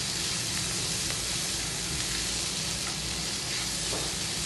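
Grated raw mango with onion and peanuts sizzling in oil in a nonstick frying pan while being stirred with a silicone spatula: a steady frying hiss as the mango sautés.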